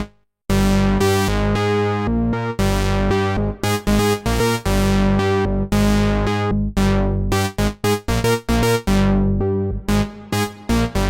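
Waldorf Pulse 2 analog monosynth playing a preset, recorded straight from the synth: a run of bright, overtone-rich notes over a low bass. The notes start after a brief break at the very start and turn short and choppy in the last few seconds.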